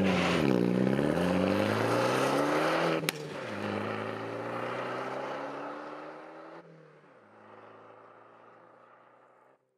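Alfa Romeo MiTo engine and exhaust revving and accelerating: the note dips and then climbs, a sharp click comes about three seconds in, and a quieter rising note follows. It fades away near the end.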